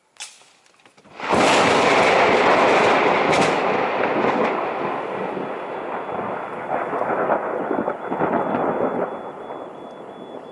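Thunder from a close lightning strike: a sharp crack just after the start, then about a second later a loud rolling rumble that swells again a few times and slowly fades over the following seconds.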